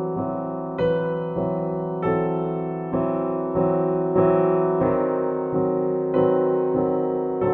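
Background piano music: struck chords about every half second, each fading before the next.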